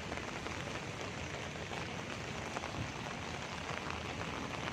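Steady rain falling on a wet street: an even hiss.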